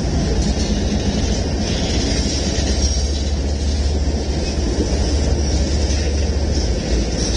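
Mixed freight train rolling past: a steady, loud low rumble of wheels on rail with a thin high hiss over it.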